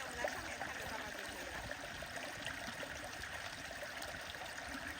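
Stream water flowing steadily, with a few faint clicks and a brief louder knock about a quarter of a second in.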